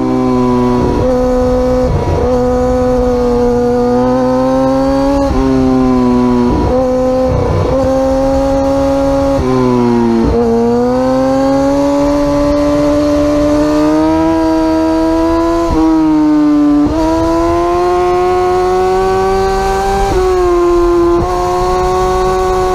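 Superbike engine running at high revs, its pitch climbing slowly and broken by short sharp dips about ten times, as in quick gear changes at speed.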